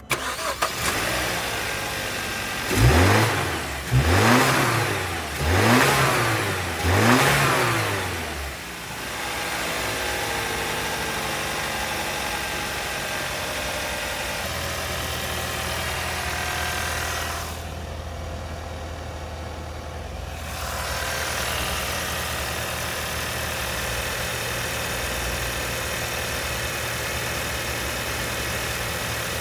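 2016 Hyundai Sonata engine running. It is revved four times in quick succession, each rev rising and falling back, then settles into a steady idle.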